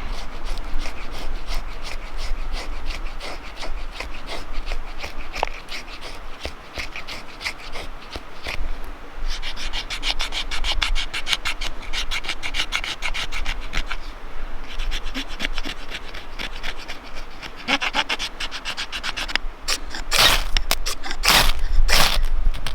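Rapid, repeated rasping strokes of something rubbing or scraping on wood, several a second, with a few heavier strokes near the end.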